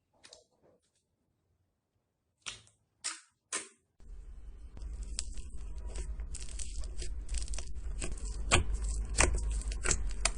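Slime being handled: three sharp pops about half a second apart, then, from about four seconds in, a dense run of crackles and clicks over a low hum, growing louder.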